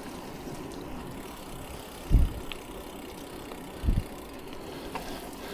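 Steady rolling and wind noise from a bicycle ride on a road, with two short low thumps about two and four seconds in.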